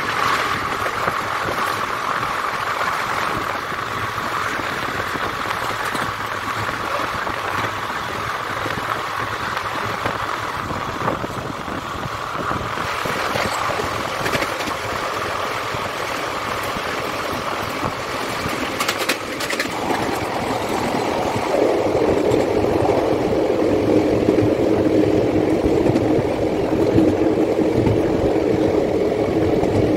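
Express passenger train running at speed, heard from an open coach door: steady rush of wheels on rail and wind. About twenty seconds in the sound grows louder and deeper while the coach runs close alongside a freight train of open wagons on the next track.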